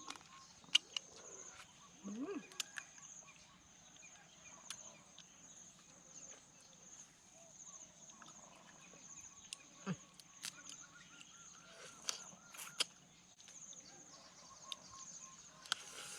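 Outdoor ambience: a steady, high-pitched pulsing insect trill, with scattered sharp clicks and taps of eating and occasional short bird calls.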